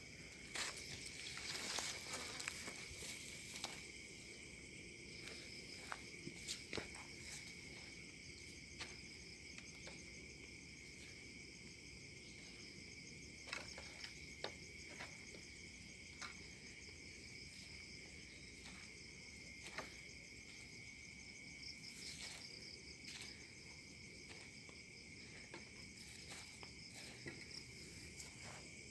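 Insects chirring steadily in several high, continuous tones, with occasional soft footsteps and rustling scattered through it.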